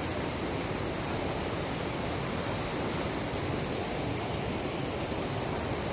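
Waterfall's rushing water: a steady, unbroken roar of falling and flowing water.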